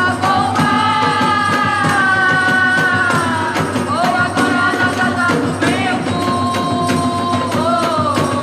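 Gospel worship band playing a song with drums and tambourine keeping a steady beat, a voice singing long held notes over it.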